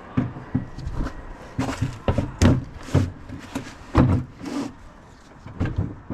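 Hand tools and metal engine parts being handled during an engine teardown: a series of irregular clunks and clinks, loudest about two and a half and four seconds in.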